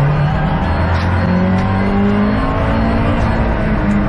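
Subaru WRX STI's turbocharged EJ20 flat-four under hard acceleration, heard from inside the cabin, its engine note rising and stepping in pitch.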